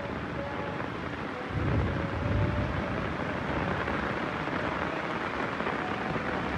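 Heavy rain falling steadily, with a short low rumble of thunder about a second and a half in.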